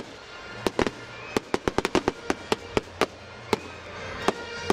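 Aerial fireworks exploding in a rapid, uneven string of sharp bangs, several a second, thinning out toward the end.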